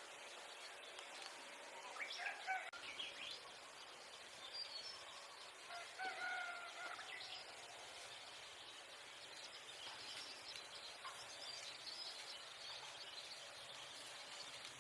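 Two short bird calls, about two seconds in and again about six seconds in, over a steady outdoor hiss.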